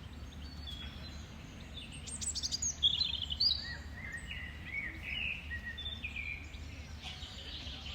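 Songbirds singing: a quick high trill about two seconds in, then a run of short chirps and whistled notes, over a steady low background rumble.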